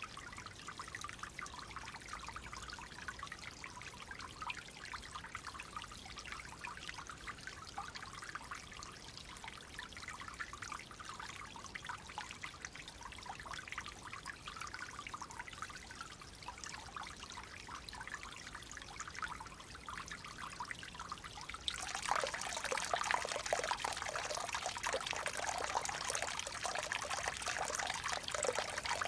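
Clear water trickling and splashing in a small stream, a steady gurgle. About 22 seconds in it suddenly becomes louder and fuller, a heavier rush of water.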